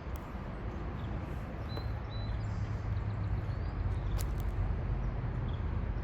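Outdoor ambience: a steady low rumble with a few faint, short bird chirps scattered through it and a brief click about four seconds in.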